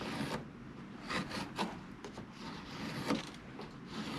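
A few light, scattered knocks and clicks with some rustling: wooden boards and tools being handled on a workbench.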